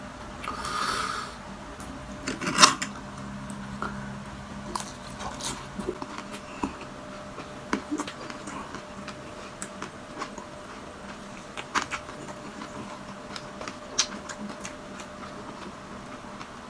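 A person chewing a mouthful of balut and crispy fried chicharon, with irregular crunches and wet mouth clicks. The loudest crunch comes about two and a half seconds in.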